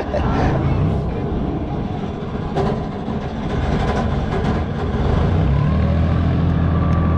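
Engine of a wooden fishing boat running steadily under way, a low drone that becomes steadier and stronger about five and a half seconds in, with a couple of brief knocks.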